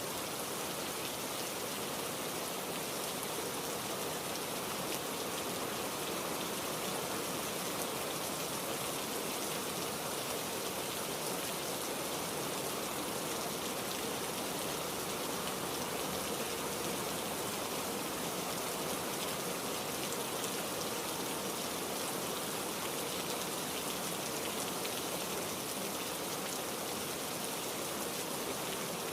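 Heavy rain falling steadily, an even hiss of raindrops on surfaces that doesn't change in level.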